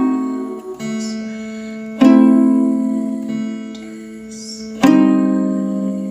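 Acoustic guitar playing slow, ringing chords, strummed hard about two seconds in and again near five seconds, each left to ring and fade out.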